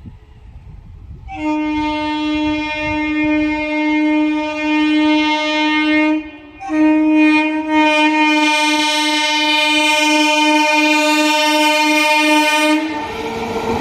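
Train horn sounding two long, steady blasts with a short break between them. Near the end, the train's running noise rises as it arrives.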